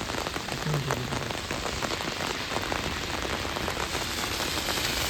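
Heavy rain falling on an umbrella: a steady dense hiss full of small drop ticks.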